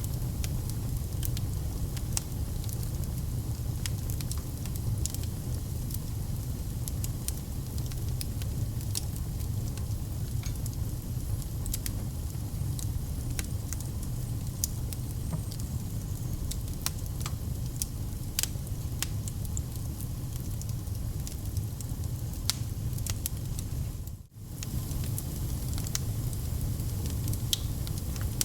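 Wood fire crackling in a fireplace: frequent irregular sharp pops and snaps over a steady low rumble of the flames. The sound drops out for a split second near the end.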